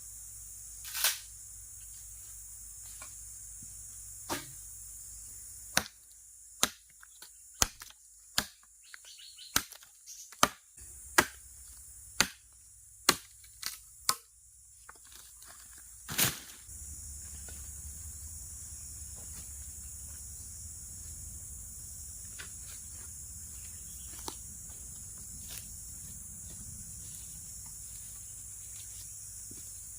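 Steady high-pitched chirring of forest insects, with a quick run of about a dozen sharp knocks or cracks in the middle and one louder crack after them.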